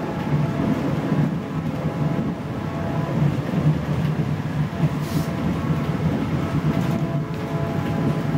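Steady rumble of a South Shore Line electric interurban train car running along the track, heard from inside the passenger cabin, with a faint steady whine over it. A short hiss about five seconds in.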